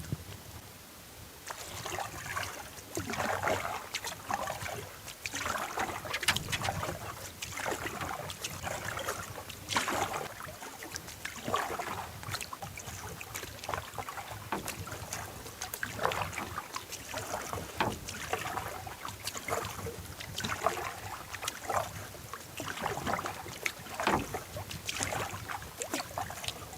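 Canoe paddle strokes in lake water, a swish and splash about every one to two seconds.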